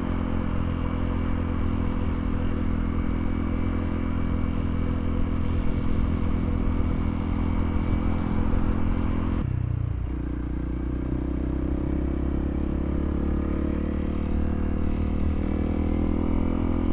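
Honda CRF300L's single-cylinder four-stroke engine running steadily while riding. About halfway through, the engine note drops suddenly, then rises slowly again.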